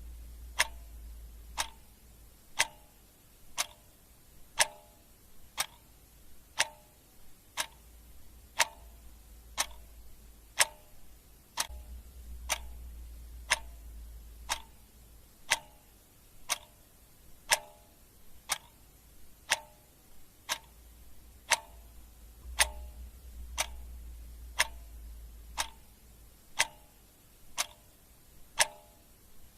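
Clock ticking steadily, one sharp tick per second, with a faint low hum that swells and fades a few times underneath.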